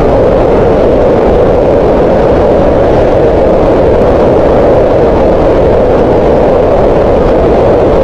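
Green noise: a steady, unchanging hiss with most of its energy in a band around 500 Hz, shaped like the sound of a waterfall or distant wind.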